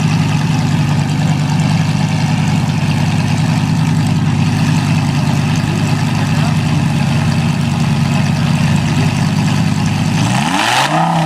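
Supercar engine idling steadily, then given a single quick rev near the end, its pitch rising and falling back within about a second.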